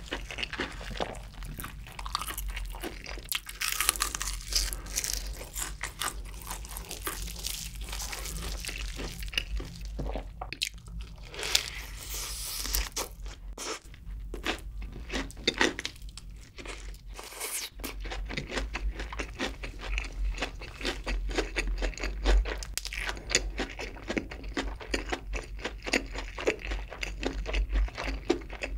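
Crispy breaded fried chicken being bitten and chewed, close to the microphone: its crust crunches and crackles in rapid, irregular bursts with wet chewing between bites.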